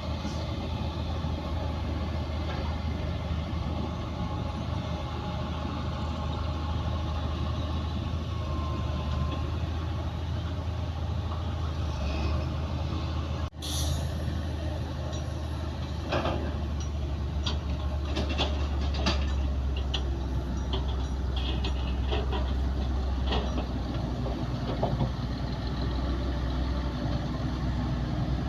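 Heavy diesel earthmoving machinery running steadily under load, with a strong low engine drone. The sound breaks off briefly about halfway through, and in the second half scattered sharp knocks sound over the engine.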